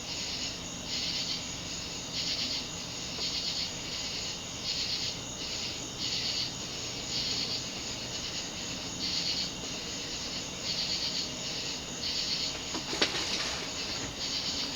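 Insects, cricket-like, chirping in a steady run of pulses, about two a second.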